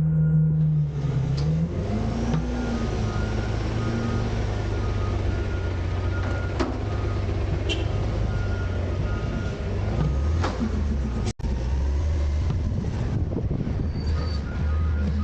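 Autocar/Heil Freedom half-pack garbage truck running while dumping bins, its engine pitch dipping and then rising about two seconds in. A few sharp knocks come through over the steady engine drone.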